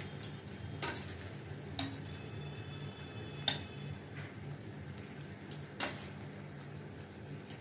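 Chicken being added to a kadai and stirred with a metal utensil: about five sharp clinks of metal on the pan, spread out, over a steady low hum.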